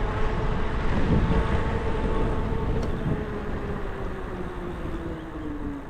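E-bike motor whining at a steady pitch that drops over the last second or so as the bike slows, over a low rumble of wind on the microphone.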